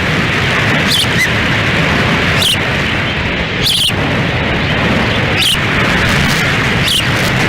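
Strong wind buffeting the nest camera's microphone in a steady loud rush, with five short high-pitched osprey chirps, about one every second and a half.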